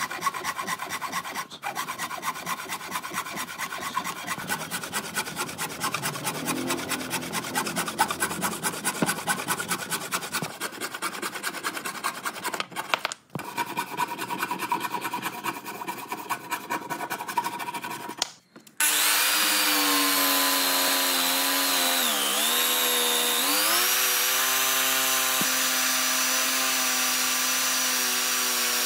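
Fast, continuous rasping and rubbing on wood. After an abrupt change, an electric power tool's motor runs at a steady pitch, which dips briefly as it slows under load and then recovers.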